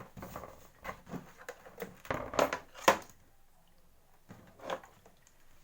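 Scattered clicks, scrapes and knocks of a pump engine's parts being handled during an oil change, busiest about two seconds in, with one sharp knock about three seconds in and a last clatter near the end.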